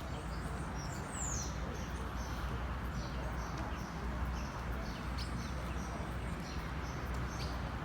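Small birds chirping with short, high calls repeated throughout, with one falling whistled note about a second in, over a steady low rumble.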